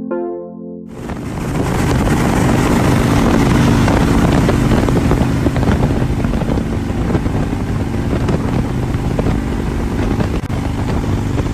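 Harley-Davidson police motorcycle's V-twin engine running at road speed, under heavy wind noise on the microphone.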